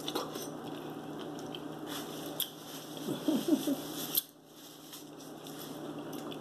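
Biting and chewing corn on the cob, with wet mouth sounds and scattered small clicks over a steady low hum. A brief vocal sound about three seconds in is the loudest part, and the hum drops away just after four seconds.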